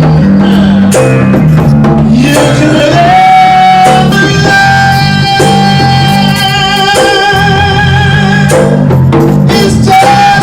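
Electric bass and voice performing live: the bass plays a moving line of low notes while the voice holds one long, wavering note from about three seconds in to about eight seconds, with scattered percussion hits.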